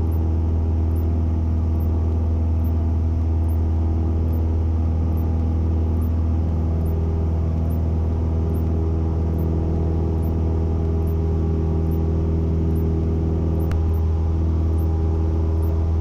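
Cessna 172N's four-cylinder Lycoming engine and propeller running steadily at climb power after takeoff, a constant low drone that does not change.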